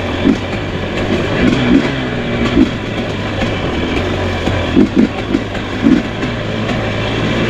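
Two-stroke enduro dirt bike engine running at low riding speed, with a few brief rises in revs.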